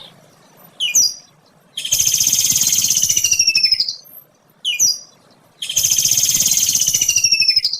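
Kingfisher calling: a short sharp call followed by a long, fast rattling trill that falls slightly in pitch, the pair heard twice.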